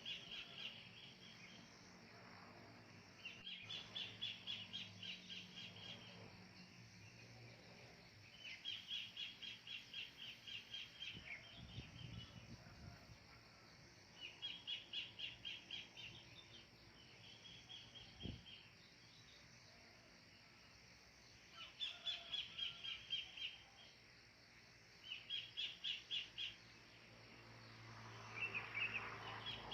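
Wild kingfisher (cekakak) calling: repeated runs of rapid, evenly spaced notes, each run lasting a second or two and coming again every few seconds, over faint rural background noise.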